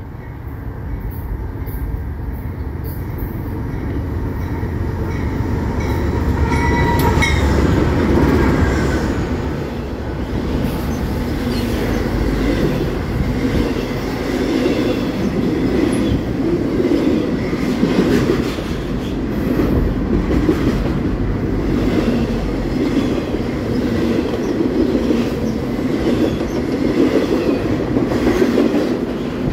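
Intermodal freight train approaching, growing louder over the first eight seconds or so, then rolling past close by. Its well cars, carrying a highway trailer and double-stacked containers, give a steady rumble with a rhythmic clatter of wheels on the rails.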